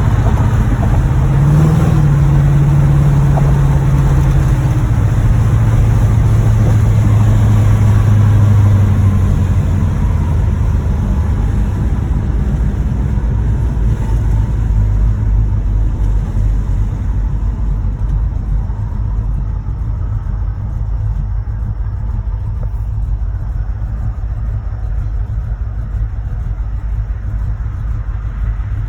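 1986 Chevrolet Monte Carlo SS V8 engine pulling on the road, its pitch stepping up about a second and a half in and holding for several seconds before it eases off and runs quieter for the rest. The engine has a rod knock in the bottom end.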